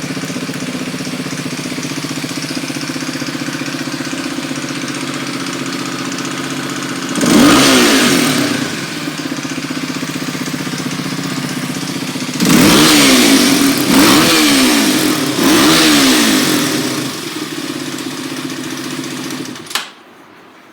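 Kawasaki D-Tracker's single-cylinder four-stroke engine, bored up to 292cc, idling steadily. The throttle is blipped once about seven seconds in, then three times in quick succession, each rev rising and falling. Near the end the engine is shut off.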